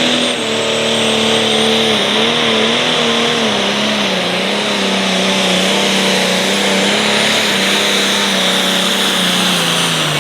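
International 3688 light pro stock pulling tractor's turbocharged diesel engine running flat out under load as it drags the weight-transfer sled, with a steady high turbo whine. The engine note sinks gradually lower as the sled bogs it down.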